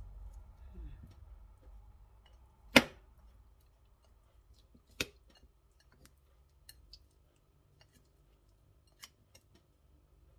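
Sharp knocks of kitchen prep on a cutting board: one loud knock about three seconds in, a second a couple of seconds later, then a few light clicks.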